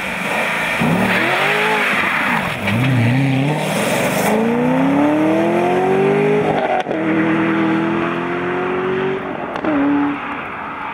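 Chevrolet Corvette C6 427's 7.0-litre V8 (manual gearbox) driving past. Its revs dip and rise, then it accelerates hard with a long rising pitch. The pitch drops sharply at an upshift about seven seconds in, holds steady, and fades as the car drives away, with tyre hiss on the wet road.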